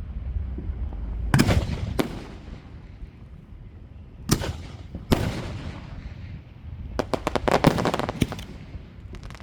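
Aerial fireworks bursting: four loud booms spread over the first five seconds, then a rapid cluster of crackling reports about seven seconds in, with a low rumble between the shots.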